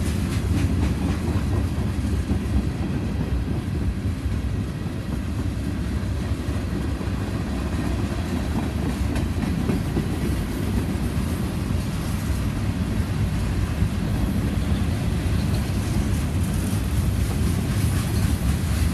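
Freight cars of a long mixed freight train (tank cars, covered hoppers, boxcars) rolling past close by: a steady rumble of steel wheels on the rails with the clickety-clack of wheels passing over rail joints.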